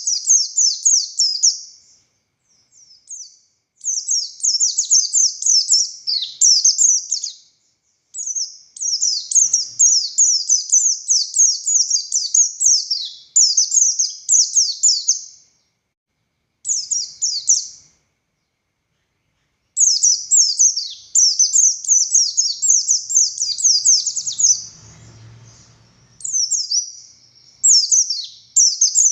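A buxtoni white-eye singing a rapid, very high twittering song. The song comes in runs a few seconds long with short pauses between them.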